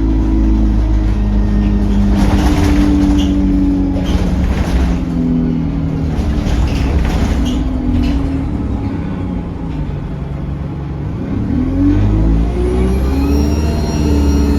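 Diesel bus engine heard on board, pulling through its gears with its note rising and falling, easing off briefly, then climbing again as the bus pulls away. A thin high whistle from the turbocharger comes in near the end.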